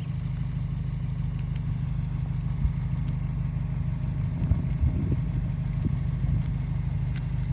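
Subaru Impreza WRX STI's turbocharged 2.0 L EJ207 flat-four idling steadily, a low rumble, with a few low thumps about halfway through.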